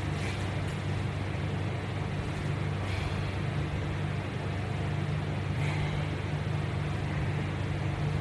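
Steady low mechanical hum of room machinery such as an air conditioner, with a few faint soft hisses over it.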